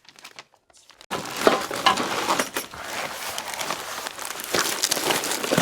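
Packaging rustling and crinkling as parts are handled out of a box, with many small clicks and knocks. It starts suddenly about a second in, after near silence.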